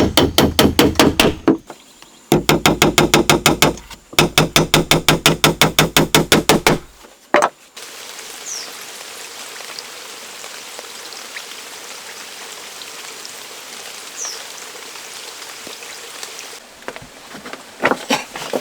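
Rapid wooden knocking, about seven strikes a second, in three runs of two to three seconds each, then a single knock. After that a steady hiss with two brief high chirps, and a few more knocks near the end.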